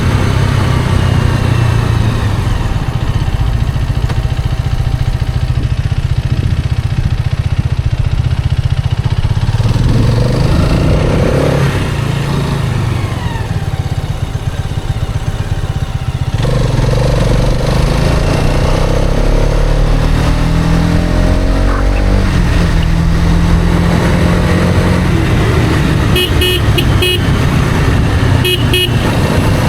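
Hero Karizma XMR's single-cylinder engine running under way, easing off about halfway through and then revving back up through the gears. Near the end a vehicle horn toots a few short times.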